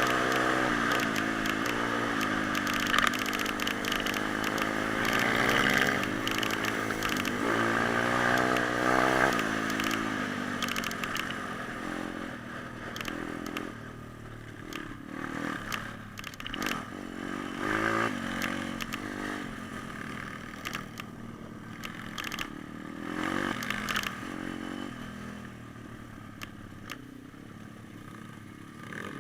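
Small four-stroke pit bike engine revving hard, its pitch rising and falling over and over for about the first ten seconds. It then drops away to a quieter, uneven engine note with scattered clicks and clatter, fading toward the end.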